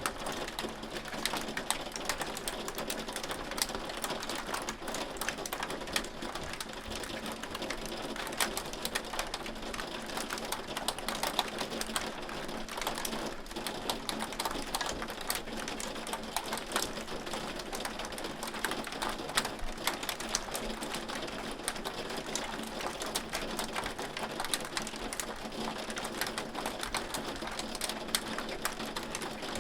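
Hail falling: a dense, steady clatter of small ticks of hailstones striking, with now and then a louder hit.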